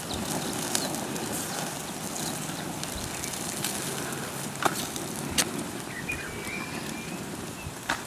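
Outdoor ambience: a steady rushing noise with a few sharp clicks and a brief bird chirp about six seconds in.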